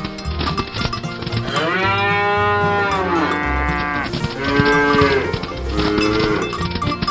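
Cattle mooing: three drawn-out moos, the first and longest about one and a half seconds in, over background music with a steady beat.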